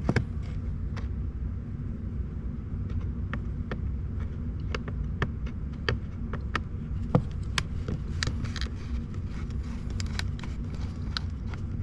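Irregular small clicks and taps of hand work on plastic dash trim with a Phillips screwdriver, over a steady low hum.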